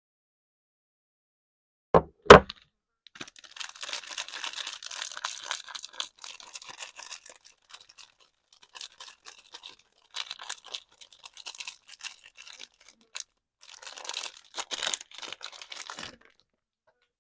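Two knocks about two seconds in, then crinkling and rustling of soap packaging being unwrapped, in stretches with pauses between them.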